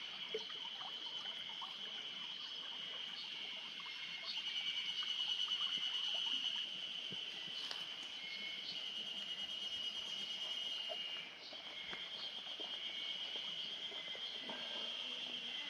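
Steady chorus of trilling insects, one continuous high-pitched pulsing trill that grows louder between about four and six and a half seconds in, with a few faint clicks.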